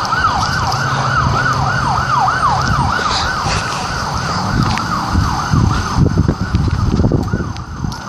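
Police car siren going in a fast yelp, rising and falling about three times a second, over a low hum. The yelp fades out about six seconds in.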